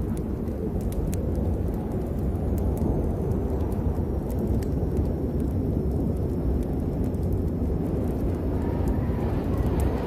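Storm ambience: a steady, deep rumbling noise with scattered light ticks throughout.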